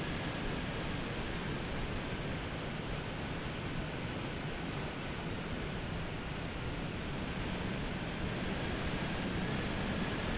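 Steady rushing wind and road noise picked up by a motorcycle-mounted video camera's microphone while riding, with a faint steady whine underneath.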